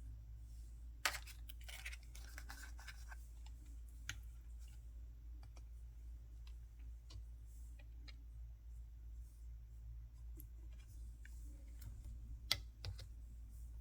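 Small toys and their packaging handled by hand: scattered light clicks and taps, with a sharp click and a short crinkly rustle about a second in and another sharp click near the end.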